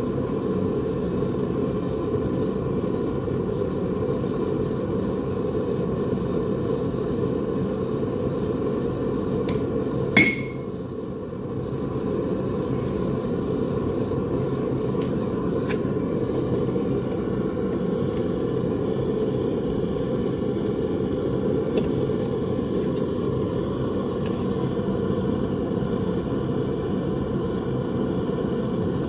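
A steady low rumble, broken once about ten seconds in by a single hammer blow on metal that rings briefly, with a few faint taps later.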